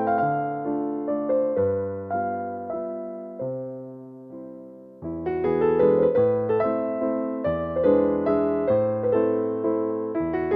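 Gentle solo piano music, slow struck notes and chords ringing out; the phrase fades away about four seconds in and the playing starts again at about five seconds.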